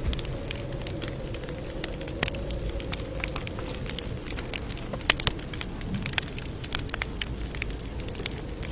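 Campfire burning with a steady low rumble and irregular crackles and pops of burning wood.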